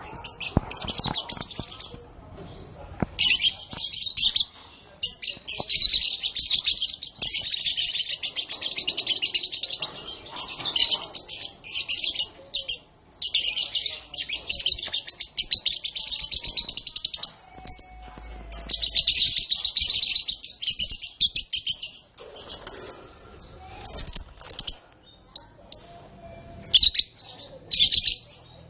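Canary singing: long phrases of rapid high trilled notes, each running several seconds with brief pauses between, with shorter bursts near the end.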